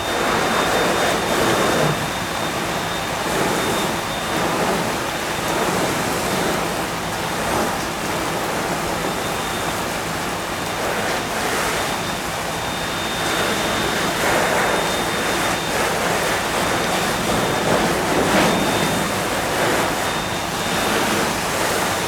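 Loud, steady rushing noise at a large fire being fought with hoses, the blaze and water spray together, swelling and easing every second or two. A faint high whine holds steady under it.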